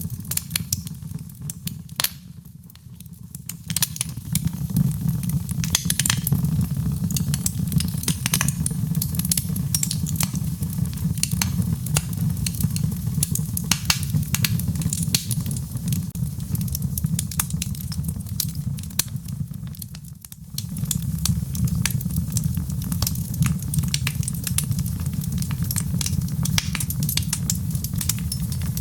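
Wood fire in a fireplace crackling, with frequent sharp pops over a steady low rumble of the flames. The rumble fades briefly twice, a couple of seconds in and about two-thirds of the way through.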